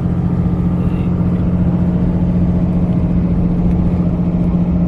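Steady engine and road drone heard from inside a moving vehicle's cabin, with a constant low hum.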